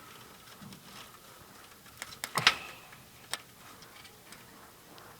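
A few faint, sharp pops of distant fireworks, the clearest cluster about two seconds in and another a second later, over a quiet hiss.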